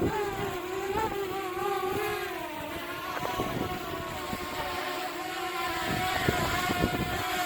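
DJI Mavic Air quadcopter's propellers whining as it hovers in strong gusty wind. The pitch wavers up and down as the motors fight to hold position. Wind buffets the microphone.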